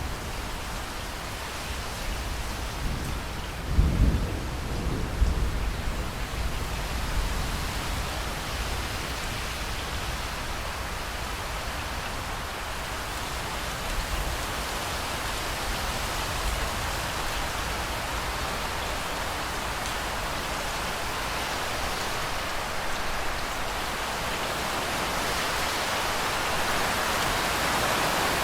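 Steady rain falling, with a low roll of thunder about four seconds in that rumbles on for a few seconds and fades; the rain grows somewhat heavier near the end.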